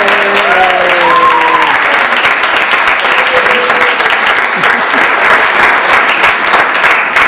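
An audience applauding with dense, steady clapping, with a few voices calling out over it in the first two seconds.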